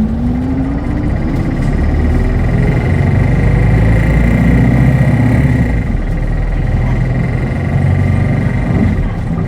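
Hino Blue Ribbon hybrid city bus running, heard from inside. Its drivetrain rises in pitch as it picks up speed about a second in, over a steady low rumble, and a steady high whine comes in about two seconds in and holds.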